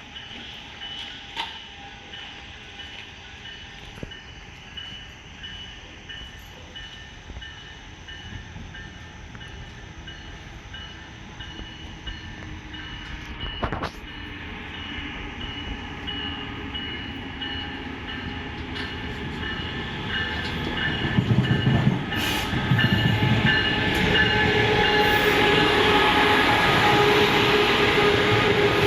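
Train approaching and drawing near, its rumble growing steadily louder, with steady ringing tones over it. The low rumble of the locomotive comes in strongly about two thirds of the way through.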